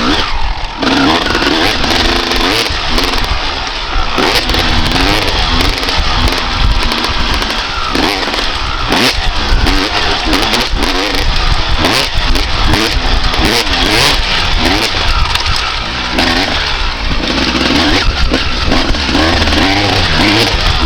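1995 Honda CR250R's single-cylinder two-stroke engine being ridden hard, revving up and dropping back again and again as it is worked through the throttle, over a constant low rumble.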